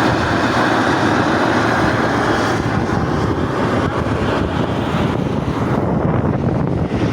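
Steam venting from a fumarole in a volcanic sulfur crater: a loud, steady rushing hiss that turns a little duller near the end.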